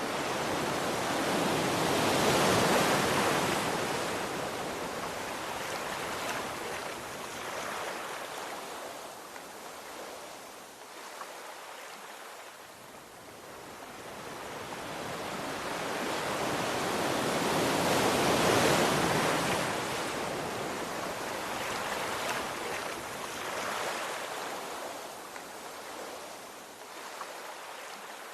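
Ocean waves breaking and washing up the shore, swelling and ebbing slowly. Two large waves break, one a few seconds in and one past the middle, with smaller surges between them.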